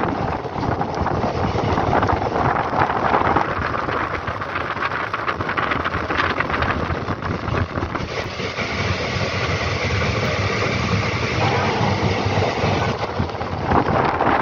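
Passenger train running at speed, heard at an open coach window: a steady rumble and clatter of the wheels on the rails, with wind rushing over the microphone.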